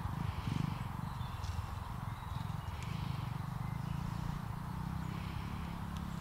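Pit bike engine running steadily, a low even rumble that holds its pitch.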